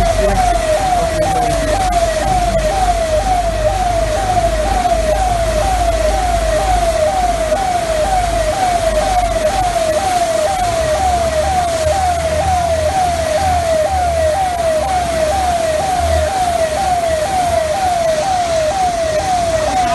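Emergency vehicle siren sounding a fast repeating wail, about two sweeps a second, over a low rumble.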